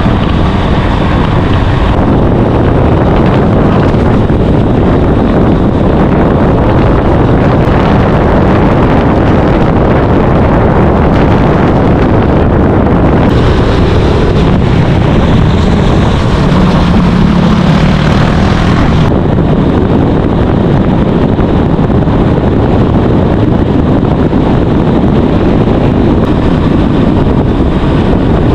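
Loud, steady wind buffeting the microphone while riding at speed, over the low rumble of the moving vehicle.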